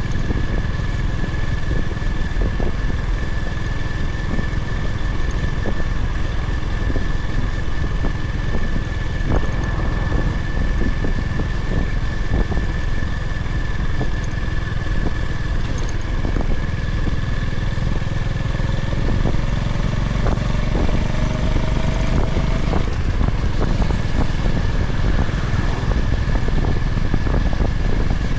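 Honda GB350's air-cooled single-cylinder engine running steadily under way, with road and wind noise.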